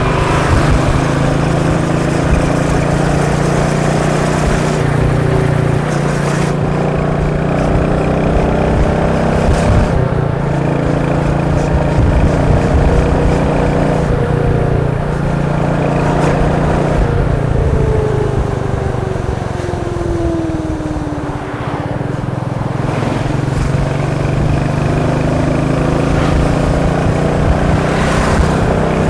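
Royal Enfield Meteor 350's single-cylinder engine and exhaust running steadily under way. The engine pitch falls away about two-thirds of the way through as it slows, then picks back up.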